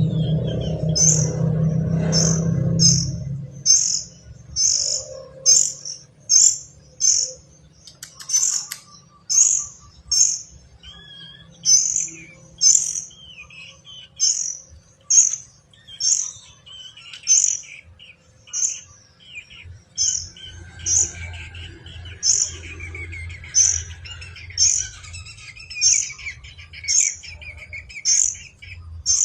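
A kapas tembak bird calling: short, high chirps repeat about once a second, with softer warbling notes in between. A low rumble is heard in the first few seconds.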